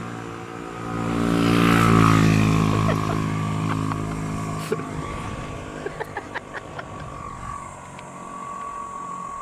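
Motorcycle engine running with a steady note, loudest about two seconds in, then cut off nearly five seconds in with a click. A scatter of small clicks follows.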